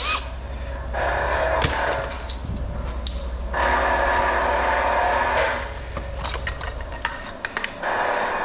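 Power tool cutting through thin scrap metal in two long passes, with the motor humming steadily and stopping near the end, and metal pieces clanking.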